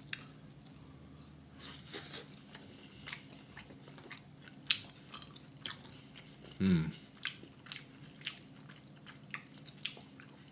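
A person chewing rotisserie chicken close to the microphone, with many short wet mouth clicks and smacks scattered through. There is a brief hummed "mm" about two-thirds of the way in.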